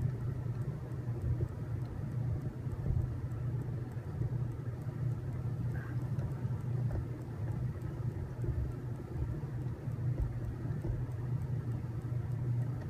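A steady low background hum with a few faint, scattered small handling noises.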